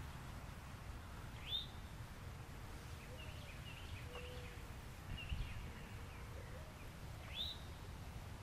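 Birds calling: two short, loud rising calls, about a second and a half in and again near the end, with a cluster of fainter chirps in between, over a steady low rumble.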